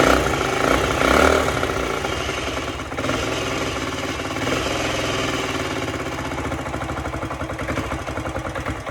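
1977 Honda CT90's freshly rebuilt single-cylinder four-stroke engine running on its first start. It is revved up around a second in, then held at a fast, steady, pulsing run, and stops near the end. The engine won't yet idle on its own and needs adjusting.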